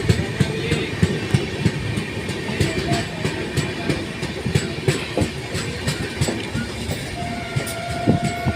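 Indian Railways train running, its wheels clicking quickly and unevenly over the rail joints. About seven seconds in, the train's horn starts sounding a steady blast.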